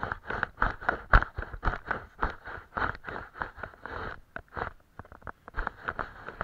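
Paintbrush scraping over paper in quick, scratchy strokes, several a second and uneven in rhythm, with short pauses about four and five seconds in.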